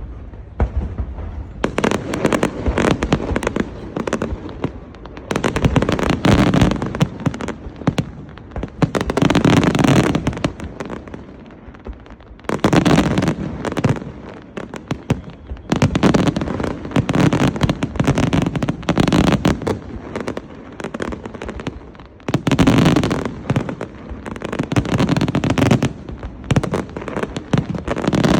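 Large fireworks display: dense volleys of shell bursts and crackle, surging in loud waves every three to four seconds with quieter crackling between.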